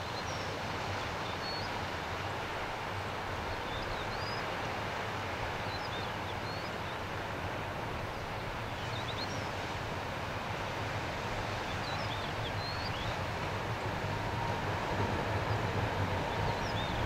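Distant electric-locomotive-hauled container freight train running along the line, a steady rumble that slowly grows louder near the end, where a steady high tone joins in. Small birds chirp now and then.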